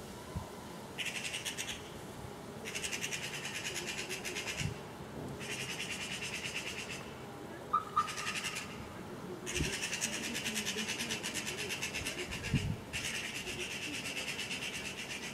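Eurasian magpies chattering: repeated bouts of harsh, fast rattling calls, each one to three seconds long, with a short clear note about eight seconds in.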